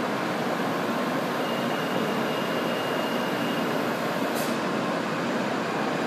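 N700-series Kyushu Shinkansen train arriving at a station platform: a steady rushing rumble of its wheels and running gear. A faint thin whine runs for about two seconds, and a brief high hiss comes about four seconds in.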